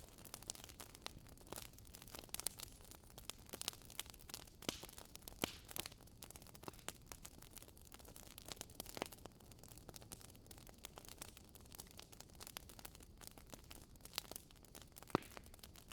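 Wood fire crackling in a fireplace: irregular sharp pops and snaps over a faint steady hiss, with a louder pop near the end.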